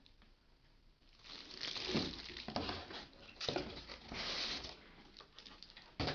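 Packaging rustling and crinkling as a vacuum cleaner's accessory nozzles are unwrapped and handled, with a few sharp knocks of plastic parts. It starts about a second in.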